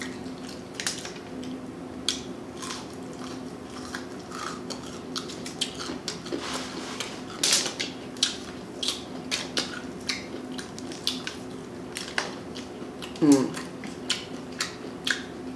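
Close-up eating sounds: chewing, wet mouth clicks and smacks, and the crunch of bites into fried food, as short sharp crackles scattered throughout over a faint steady hum.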